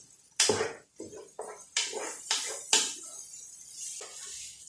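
A cooking utensil stirring minced chicken in a cooking pot, knocking and scraping against the pot in a run of irregular strokes.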